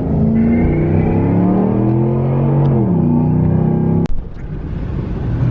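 Ford F-150 pickup's engine revving hard under load, its pitch climbing then dropping sharply about three seconds in. The loud engine sound cuts off abruptly about four seconds in, leaving a quieter rumble.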